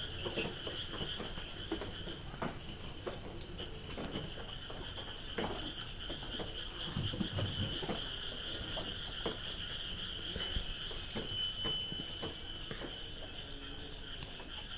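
Scattered light clicks and knocks of things being handled while a refrigerator is cleaned, over a steady high-pitched chirring like insects.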